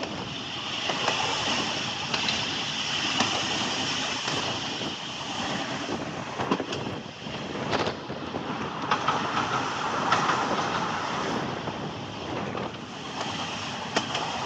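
A train running on rails: a steady rumble and rattle with a few sharp clicks, and wind on the microphone.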